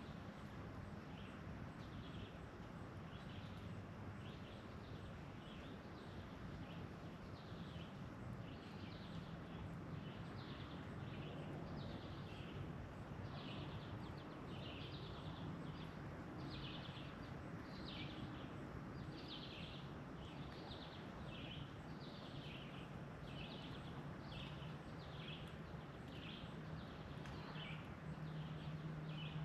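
Birds chirping over and over in short high notes, about one to two a second, over a steady background hiss and a low hum.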